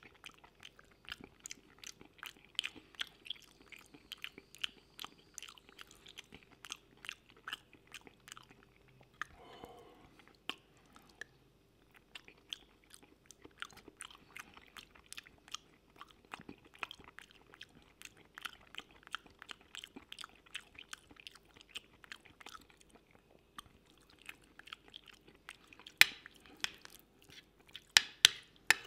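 Close-miked chewing of creamy mushroom pasta: steady wet mouth clicks and smacks. Near the end come a few louder sharp clicks as a fork and spoon work the plate.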